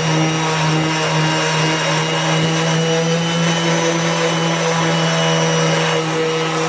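A small electric motor running steadily at one pitch, with a loud, even whine.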